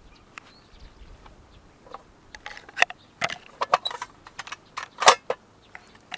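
Small hard objects clinking and clattering as they are handled: a quick, irregular run of sharp clicks starting about two seconds in, with the loudest clack near the end.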